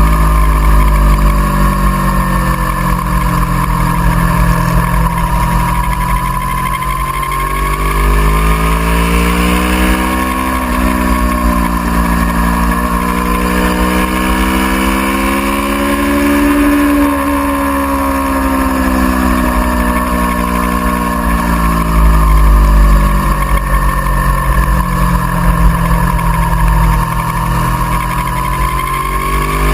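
Aprilia Tuono V4R's V4 engine running hard on track, its pitch falling and rising in slow sweeps of several seconds as the throttle is closed and opened, over a constant low rumble.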